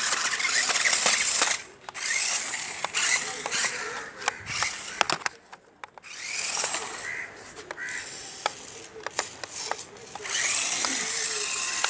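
Small electric motor and gearbox of a toy RC rock crawler whirring in four short bursts of a second or two each as it is driven, with scattered clicks and knocks in between.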